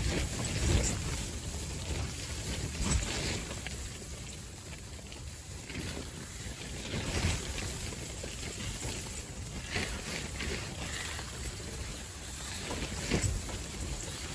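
Strong gusty wind buffeting the microphone: a steady low rumble that swells in sudden gusts every few seconds.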